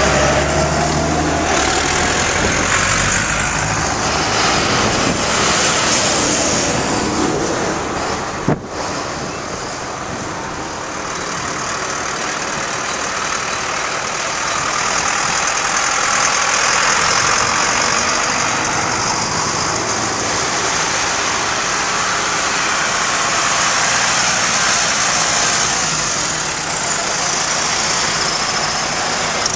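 Tractor engines running as a line of tractors drives past: a steady, loud mix of engine noise, with one sharp knock about eight seconds in.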